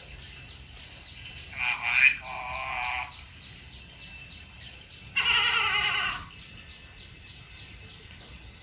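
Eclectus parrot vocalising in two harsh, rich-toned bursts, each about a second long, the first with a sharp upward squawk partway through.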